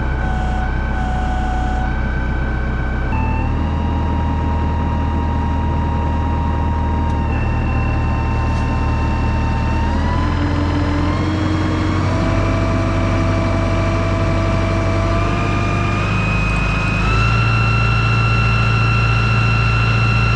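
Tractor engine running under load as it drives a manure pit agitator, a loud steady drone whose pitch steps up several times as the engine is throttled up.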